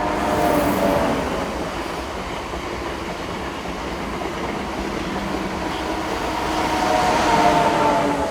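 A Renfe Class 130 Intercity Talgo electric unit passing on the line, with humming motor and fan tones and a steady rolling rumble of wheels on rail. The sound is loudest near the start and again near the end, as the power cars at each end of the train go by, and quieter in between while the coaches roll past.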